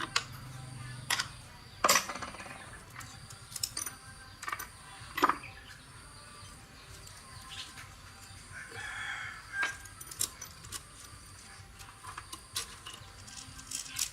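Scattered sharp clinks and knocks of work on a motorbike, with a rooster crowing once about nine seconds in.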